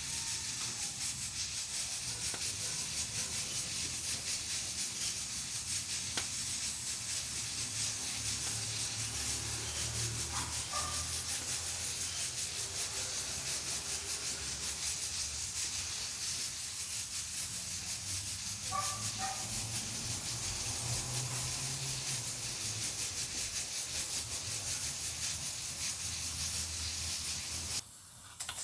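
Pressure cooker on a wood-burning stove steadily hissing steam from its valve while cooking under pressure. The hiss drops away briefly near the end, then comes back louder.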